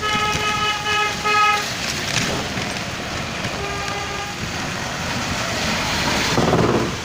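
Vehicle horn honking in several short toots, then again more faintly about three and a half seconds in, over steady rainy street traffic noise; a louder rush of passing traffic near the end.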